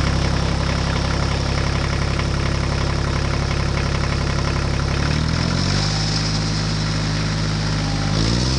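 An engine idling steadily, like a tractor engine. Its pitch drops about five seconds in and rises again near the end.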